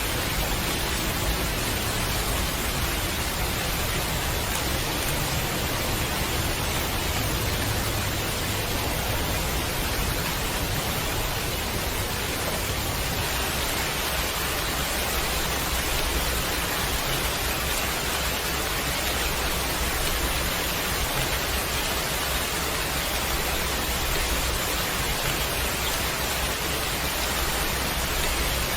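Steady heavy rain, an even hiss without separate drops or changes.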